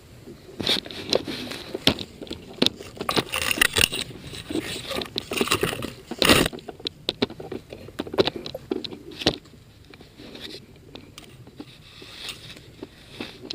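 Irregular scraping, rattling and crackling close to a body-worn camera, with one louder rush of noise about six seconds in.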